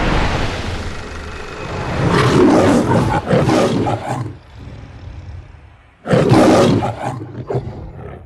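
The MGM logo's lion roaring twice: one roar of about two seconds starting two seconds in, and a second, shorter one about six seconds in. Before them, a loud swell of noise fades out in the first second.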